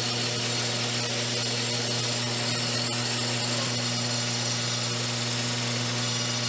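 Bandsaw running steadily while it resaws a strip of H80 structural foam core lengthwise along a fence: a constant motor hum under the hiss of the blade cutting.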